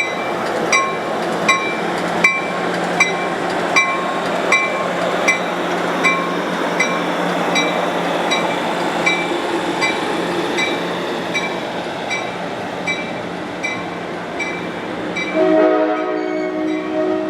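Passenger train rolling past with a crossing bell dinging steadily, about four strikes every three seconds. Near the end a locomotive horn sounds a chord.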